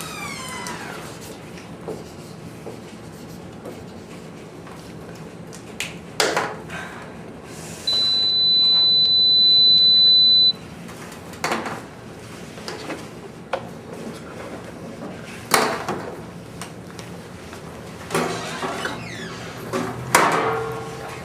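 A steady, high-pitched pure tone lasting about two and a half seconds, a sound effect standing for a ringing in the ear. Scattered short knocks and brief squeaky sounds come before and after it.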